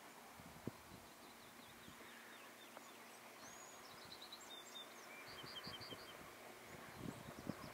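Faint outdoor quiet with a bird's short, high chirps in quick runs of five or six notes, heard a few times.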